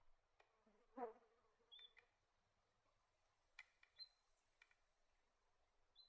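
Very faint outdoor ambience: scattered soft clicks and a few short high chirps, with a brief buzzing sound about a second in.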